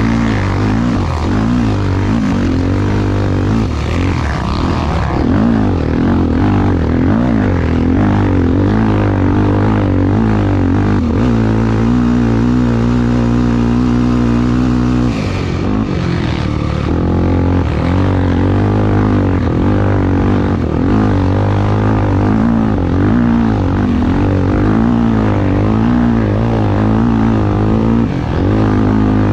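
Honda Tornado motorcycle engine running hard in a race, its revs rising and falling with the throttle. It holds steady revs for a few seconds, then drops briefly about fifteen seconds in before picking up again.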